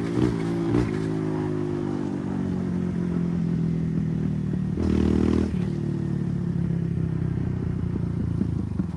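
Kawasaki KLX140R F dirt bike's single-cylinder four-stroke engine running, with a few quick throttle blips in the first second and a brief louder rev about five seconds in. The sound drops away sharply at the very end.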